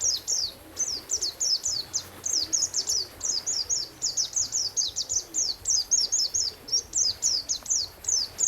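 A songbird singing a fast, continuous string of short, high, down-slurred whistled notes, several a second, as in a birdsong masteran recording.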